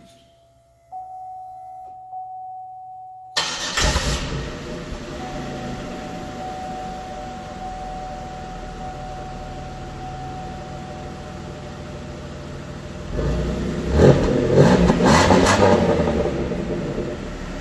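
2004 Pontiac Bonneville's 3.8-litre 3800 Series II V6 on its stock exhaust. A faint steady tone comes first; then the engine cranks and catches a few seconds in and settles to a steady idle. Near the end it is revved several times, louder, before dropping back toward idle.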